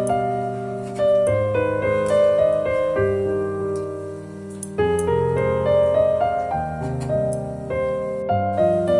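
Soft background piano music: sustained chords that change about every second, with a few higher notes on top.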